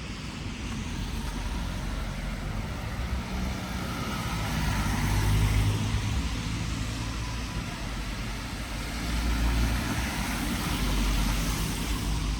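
Road traffic: vehicles passing over a steady low rumble, swelling about five seconds in and again near ten seconds.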